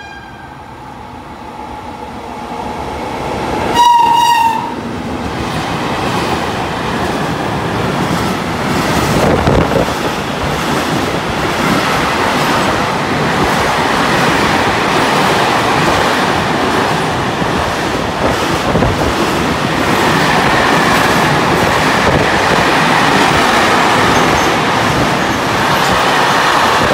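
Freight train of container and swap-body wagons running through the station: noise building as it approaches, a short horn blast about four seconds in, then the steady, loud rumble and clatter of the wagons passing.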